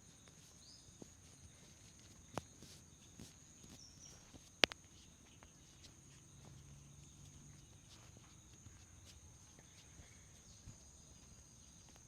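Faint hand and hair sounds of a head massage: soft rubbing with scattered light taps, a sharper tap about two and a half seconds in and the loudest one at about four and a half seconds.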